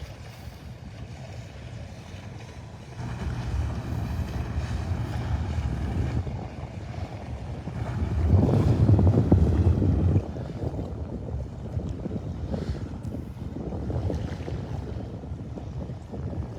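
Wind buffeting the microphone in uneven gusts, a low rumble that grows louder about three seconds in and is strongest from about eight to ten seconds in before dropping off suddenly.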